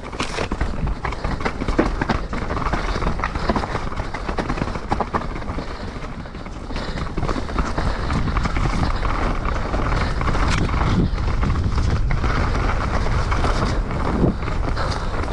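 Mountain bike riding down a wet, muddy trail: a steady rush of tyre and wind noise with frequent knocks and rattles from the bike over bumps, louder from about halfway.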